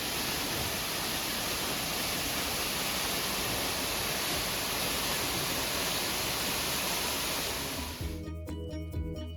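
Steady rushing of water falling over a small waterfall. It cuts off about eight seconds in, where background music comes in.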